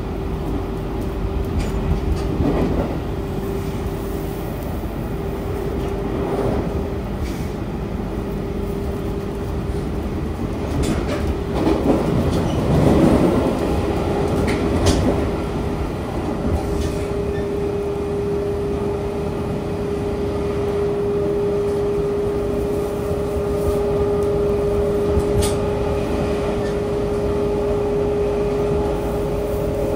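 JR 313 series electric train running along the Tokaido Line, heard from inside the car: a steady running rumble with a constant tone, scattered clicks from the wheels on the rails, and a louder swell about twelve seconds in.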